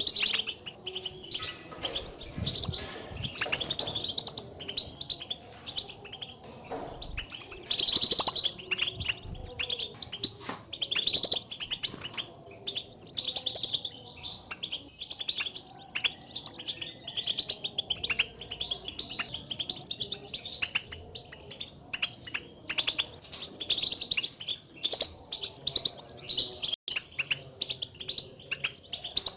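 European goldfinch contact calls: rapid, short, high chirps repeated in quick succession, the 'batbata' calls goldfinches use to call to one another, which are distinct from their full song.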